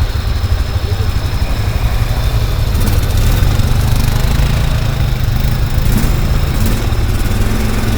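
Vehicle engine running steadily close to the microphone, a continuous low rumble.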